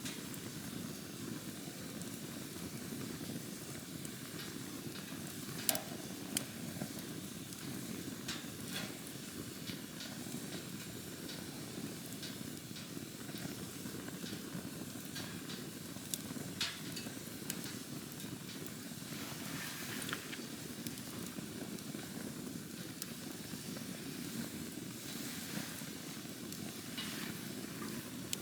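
Campfire burning: a steady low rush of flames with scattered crackles and pops from the burning wood, two of the sharpest about six seconds in.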